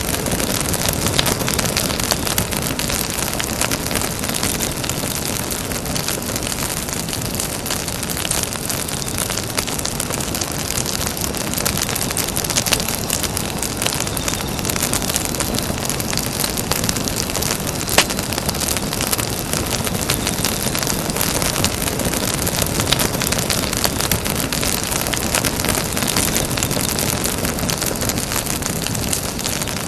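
Campfire burning: a steady rushing hiss with frequent small crackles and pops, the sharpest pop about 18 seconds in.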